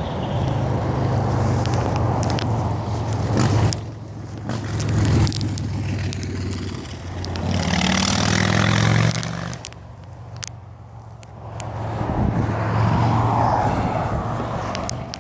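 Pickup truck engine running, revving up briefly about eight seconds in and settling back down.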